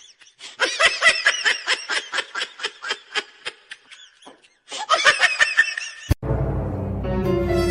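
A person laughing in quick, high-pitched bursts that come in two runs. About six seconds in there is a sharp click, and music with steady tones starts.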